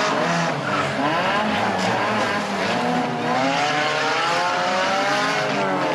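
Several banger-racing car engines revving at once, their pitches rising and falling over one another.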